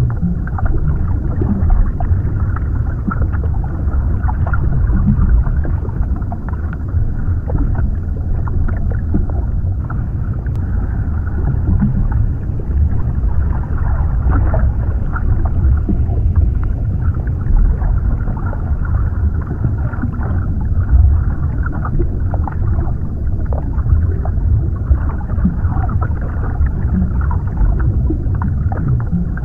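Underwater ambience: a steady, deep, muffled rumble of water with faint scattered crackles and gurgles.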